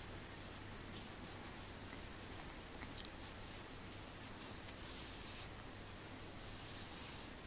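Faint scratchy rustling of yarn being drawn through crocheted fabric while sewing, with a longer hiss of yarn pulled through near the end, over a low steady hum.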